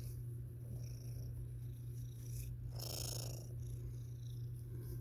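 Domestic cat purring steadily close to the microphone, with a brief rustling sound about three seconds in.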